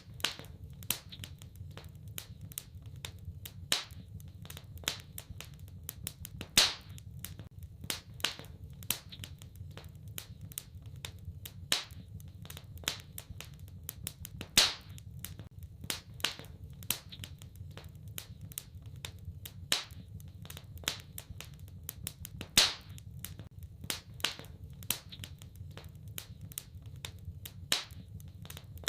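Wood fire in a fireplace crackling, with frequent small snaps and a few louder pops, over a steady low rumble.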